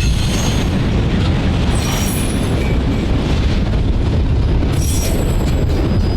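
Freight train rolling past: a loud, steady rumble of wheels on the rails, with brief high wheel squeals about two seconds in and again near five seconds.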